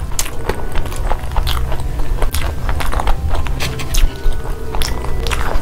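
A person chewing and crunching crispy fried eggs, with many short, sharp crunches, over background music.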